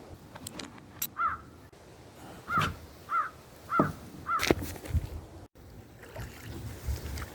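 A crow cawing five times in short, arched calls. There are a few sharp knocks and low thumps around the middle.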